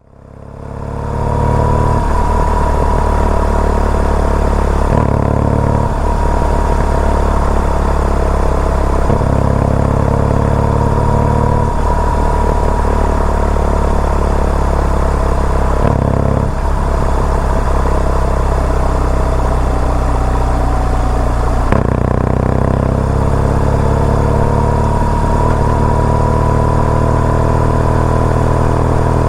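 BMW R nineT's boxer-twin engine running under way, fading in over the first second or two. Its note changes abruptly every few seconds, about five times.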